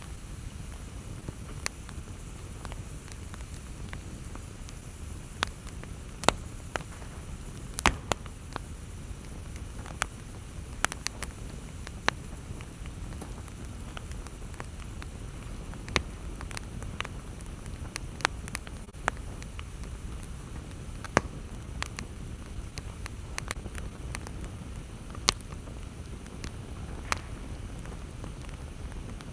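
Campfire burning, with a steady low rumble and irregular sharp wood crackles and pops every second or two.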